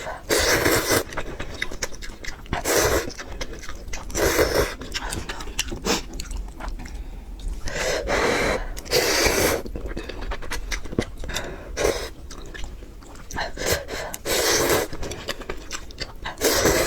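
Close-miked eating of spicy noodles: loud breathy slurps come every one to three seconds, with soft chewing sounds between.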